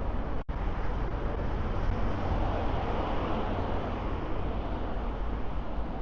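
Steady city street traffic noise, a continuous rush with a low rumble, a little fuller around the middle. The sound drops out for an instant about half a second in.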